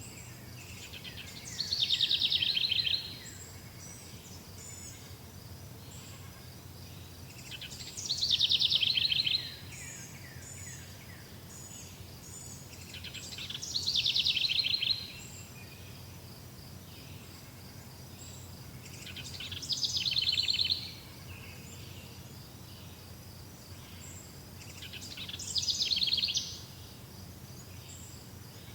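A songbird repeating the same short song five times, about every six seconds, each a fast run of notes that falls in pitch. A faint, steady chorus of high chirps runs underneath.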